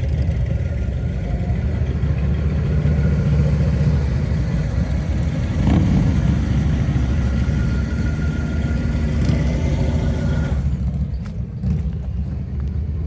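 A car engine runs with a deep, steady low rumble. Its higher-pitched noise drops away about ten seconds in while the low rumble carries on.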